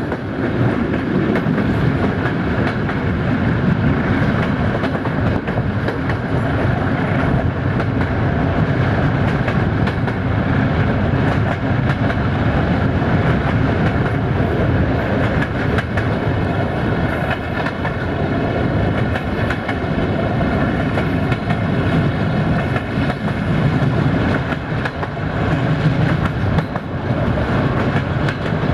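Passenger train behind a 060-DA diesel locomotive running steadily, heard from an open coach window. The wheels clatter over the rail joints in an irregular stream of clicks above a continuous rolling rumble.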